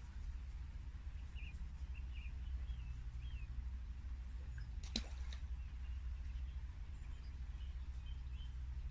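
Small birds chirping faintly in short phrases, over a steady low rumble, with a single sharp click about five seconds in.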